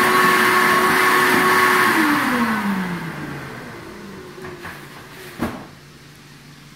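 Vacuum cleaner running steadily, then switched off about two seconds in, its motor whine falling in pitch as it spins down. A few light clicks and a single knock follow as it winds down.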